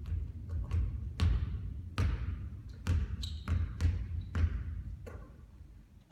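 A basketball bouncing on a hard court: about ten irregularly spaced bounces, each a low thud, growing fainter toward the end. A short high squeak comes about three seconds in.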